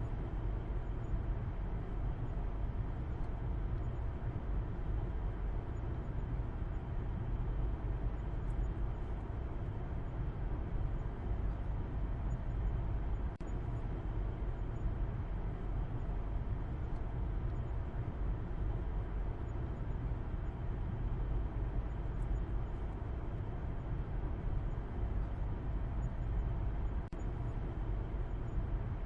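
A car driving at a steady pace: a continuous low rumble of road and engine noise that stays even, with no gear changes, horns or other events.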